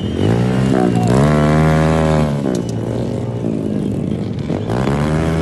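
Motocross bike engine revving hard, its pitch climbing and holding in the first two seconds, then dropping and climbing again near the end as the rider works the throttle.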